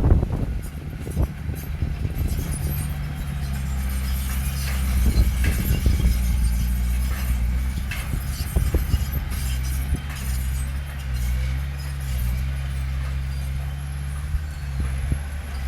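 Heavy diesel engine of earthmoving machinery running steadily, with scattered metallic clanks and knocks over it.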